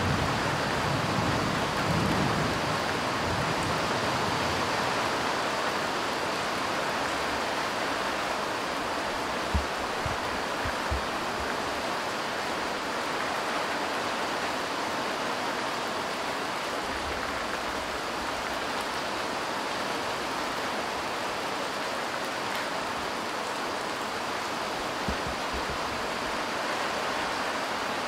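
Light rain falling steadily on parked cars and wet ground, an even hiss. A low rumble dies away in the first couple of seconds, and a few brief knocks stand out about ten seconds in.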